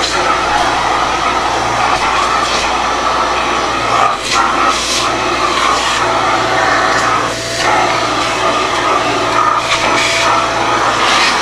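Kärcher MV 6 P Premium wet-and-dry vacuum cleaner running steadily as it sucks up dirt. Its note dips briefly twice, about four and seven and a half seconds in.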